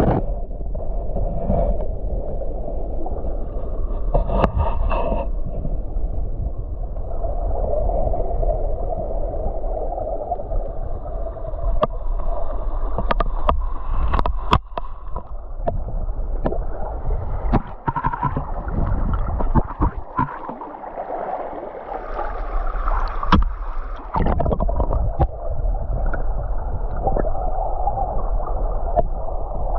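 Muffled gurgling and rushing of river water heard underwater through a GoPro's waterproof housing, with a steady low rumble and scattered sharp clicks.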